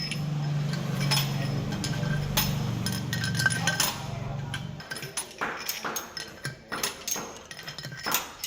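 A machine hums steadily for about five seconds and then cuts off. Metal parts clink and tap throughout, coming thick and fast once the hum stops.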